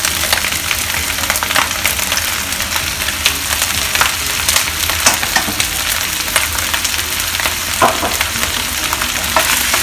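Prawn heads frying in hot oil in a wok: a steady sizzle with many small crackling pops.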